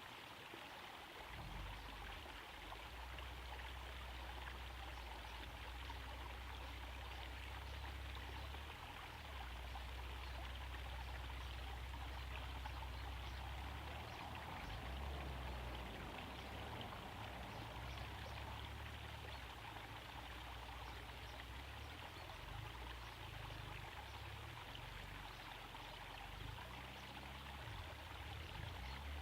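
Small garden waterfall trickling and splashing steadily into a pond, with a low rumble underneath that comes in about a second in.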